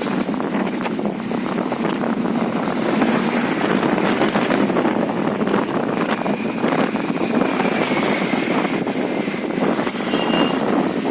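Honda Dio scooter on the move: steady wind rushing over the microphone with road and engine noise underneath. A faint high tone is heard briefly in the second half.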